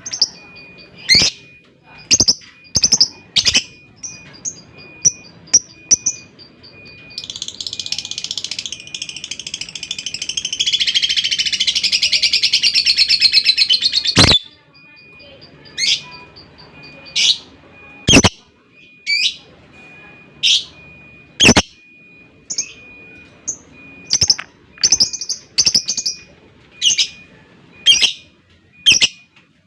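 Lovebird calling: sharp shrill chirps about once a second, with a long continuous chattering trill (ngekek) from about a quarter of the way in to about halfway, which grows louder and then cuts off suddenly. A soft, rapid, high ticking runs between the chirps early on.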